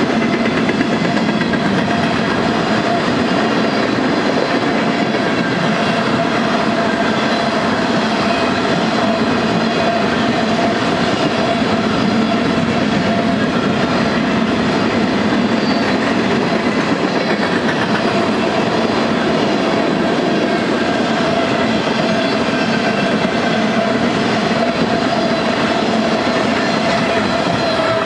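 Freight train of tank cars and covered hoppers rolling past at close range: a loud, steady rumble of steel wheels on the rails, with several steady high tones over it from the running gear.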